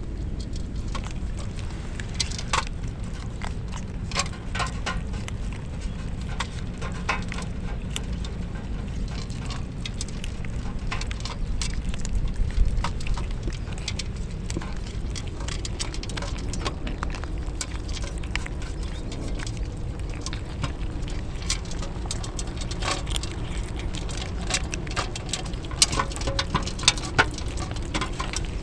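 Raindrops pattering in irregular light clicks over a steady low rumble of wind on the microphone, with a few louder drops or taps now and then.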